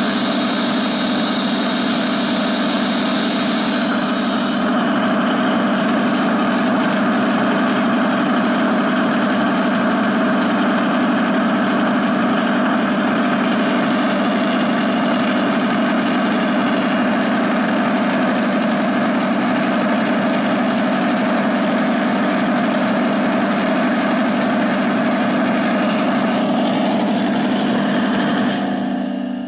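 A steady mechanical drone, holding one even pitch throughout. A high hiss over it stops about four and a half seconds in, and the drone fades out near the end.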